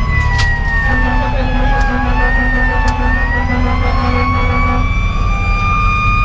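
Fire engine's Federal Q2B mechanical siren wailing, its pitch sliding slowly down and then winding back up. A rapid pulsing tone joins it for a few seconds in the middle. A heavy diesel engine rumbles underneath.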